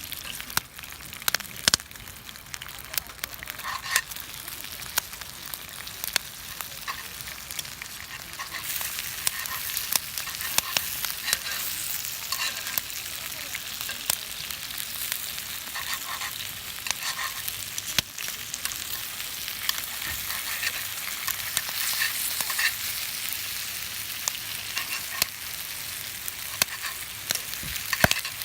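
Cooking over a wood campfire: a steady sizzling hiss with irregular sharp crackles and pops, growing a little louder about eight seconds in.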